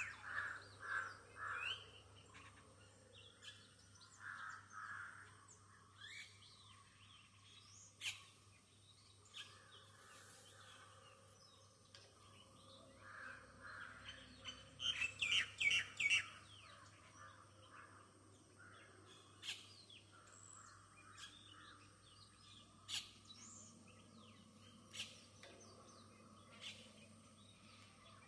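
Several birds chirping and calling in short bursts with gaps between, the busiest and loudest run about fifteen seconds in.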